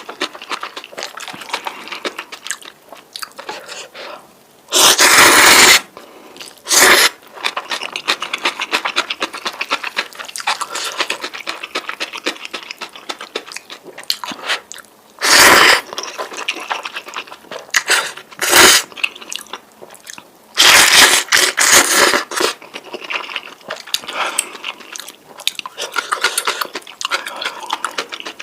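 Close-miked noodle eating: wet chewing and mouth clicks throughout, broken by several louder slurps of about a second each.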